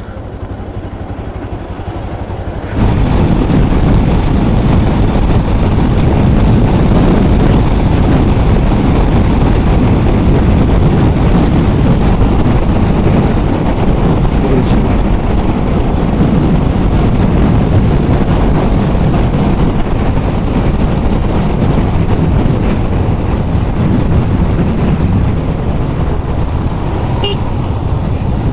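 Motorcycle underway: engine and road noise with heavy wind rush on the microphone, getting much louder about three seconds in and then holding steady.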